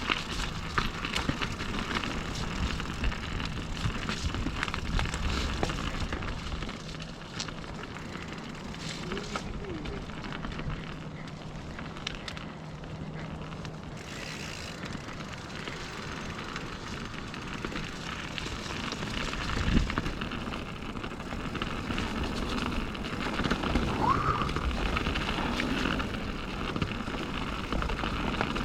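Mountain bike riding down a dirt singletrack trail: a steady rush of tyres on dirt with frequent small rattles and knocks from the bike over bumps. A brief rising squeak comes near the end.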